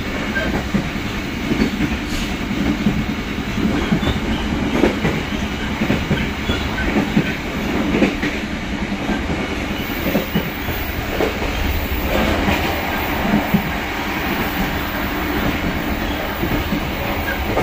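Running noise of a moving passenger train heard from inside an economy-class carriage: a steady rolling noise with the wheels clacking over rail joints.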